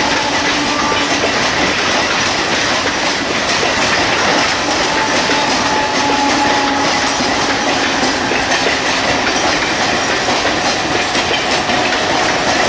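Mumbai suburban electric multiple unit (EMU) local train running past: a steady, loud noise of wheels on rail with faint steady whining tones.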